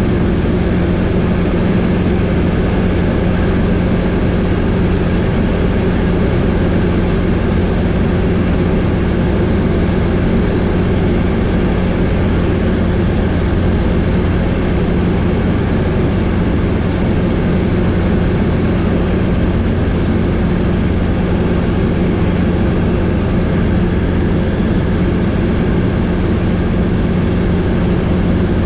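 Helicopter in flight: steady engine and rotor noise with a constant low drone.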